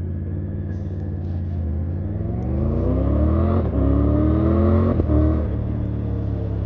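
Triumph Tiger 900 GT Pro's three-cylinder engine and exhaust running steadily, then accelerating: the pitch rises, drops at an upshift about three and a half seconds in, rises again and drops at a second upshift about five seconds in, then holds fairly steady.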